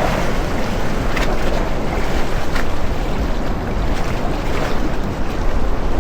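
Steady loud rushing noise with heavy wind buffeting on the microphone, and a few faint knocks.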